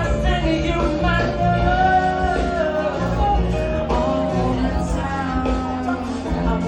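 Live band music with a singer holding long notes that glide from pitch to pitch over a steady bass line.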